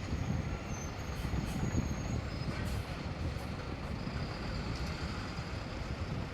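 Train cars rolling past with a steady low rumble and clatter, with faint thin high-pitched wheel squeals coming and going.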